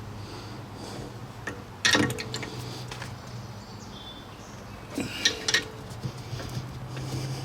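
Metal hand tools clinking as they are handled and set down after the brake caliper bolts are tightened: one sharp clink about two seconds in and a few more around five seconds, over a low steady hum.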